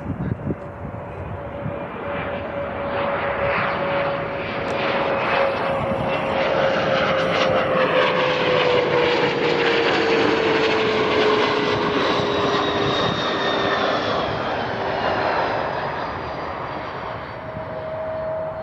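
Jet airliner passing close by, its engine noise building to a peak about halfway through while the engine tone falls in pitch as it goes past, then fading.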